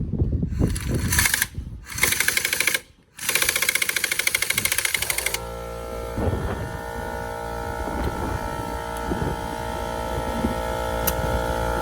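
Impact wrench hammering in two bursts of fast, even blows, with a brief pause between them. After about five seconds a steady hum with several held tones takes over.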